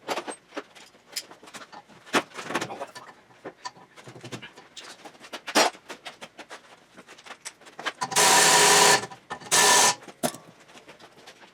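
Metal tools clinking and knocking on car parts, then a power tool run in two short bursts about two-thirds of the way in, the first about a second long and the second shorter.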